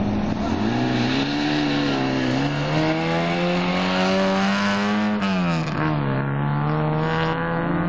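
Autocross car's engine under hard acceleration: the revs climb, with a brief dip, for about five seconds, then drop sharply and hold at a steady pitch.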